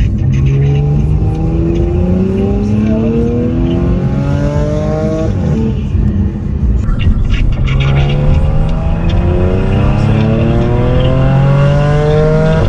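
Car engine accelerating hard through the gears: two long pulls, its pitch rising steadily each time, with a gear change about halfway through.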